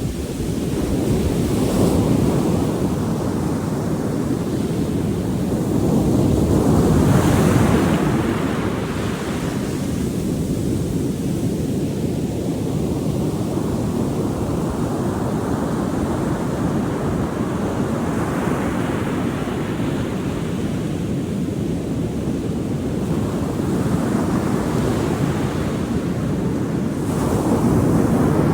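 Ocean waves breaking and washing in, a continuous rushing that swells and fades several times as each wave comes in. Wind buffets the microphone underneath.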